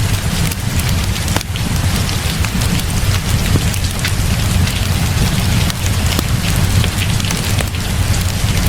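Steady heavy rain, with a low rumble underneath and scattered sharp crackles and pops from a wood fire in a fireplace.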